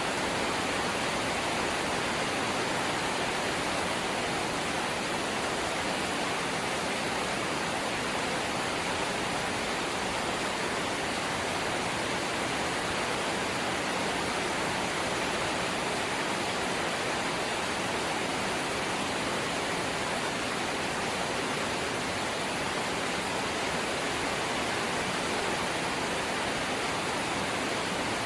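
Steady light rain falling: an even hiss with no separate drops standing out and no change in level.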